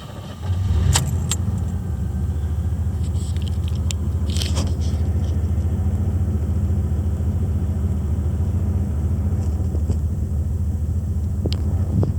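1987 Oldsmobile 442's 307 V8 cold-starting: it catches about half a second in, surges briefly, then settles into a steady idle rumble. A few light clicks sound over it.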